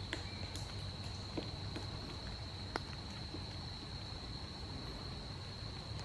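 Wet-woods ambience: a steady high-pitched insect-like drone, with a few scattered light ticks and a low rumble beneath.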